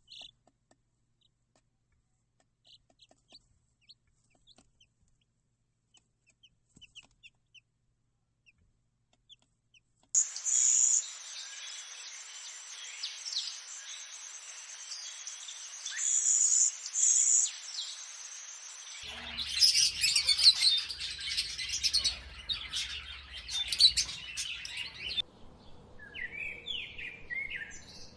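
Birds chirping and calling: sparse faint chirps at first, then from about ten seconds in a dense, louder chorus of many short high-pitched calls.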